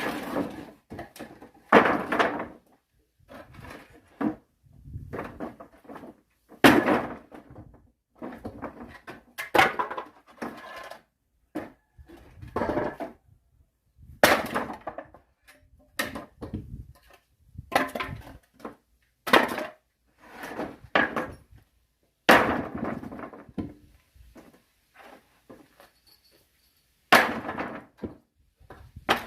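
Axe blows splitting firewood: a sharp, loud crack every two to five seconds, with lighter knocks of wood between the strikes.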